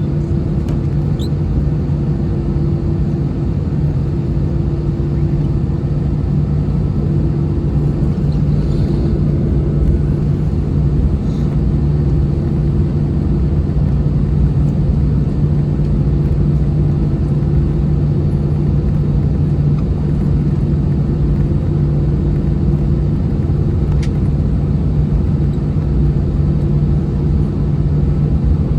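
Steady cabin hum and rumble of an Airbus A321-211's CFM56 engines running at low ground thrust, heard from a window seat, with a constant low drone.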